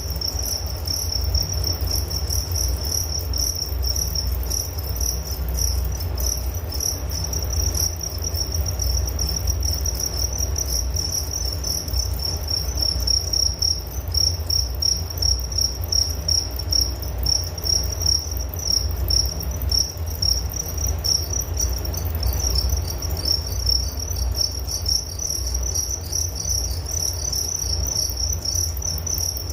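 Crickets chirping continuously: a high-pitched trill in rapid, even pulses, over a steady low rumble.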